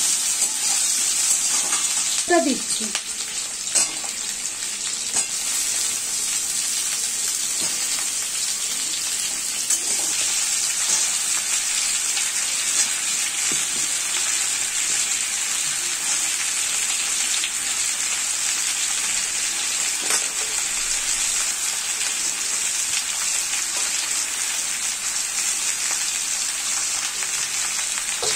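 Vegetables frying in hot oil in a kadai on a high flame: a steady sizzle, with the occasional clack and scrape of a metal spatula against the pan.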